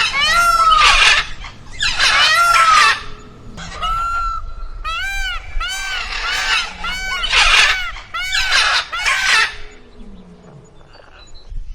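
Birds calling: a run of about a dozen short calls that each rise and fall in pitch, several overlapping, with harsher calls among them, dying away in the last couple of seconds.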